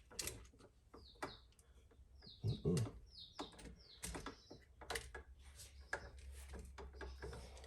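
Faint clicks and taps of a screwdriver working the copper wire of an electrical outlet, with about four short high chirps between one and four seconds in.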